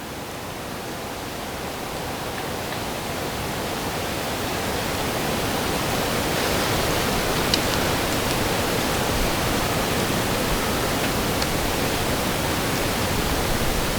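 Steady, even hiss-like noise that slowly grows louder, with one faint tick about halfway through.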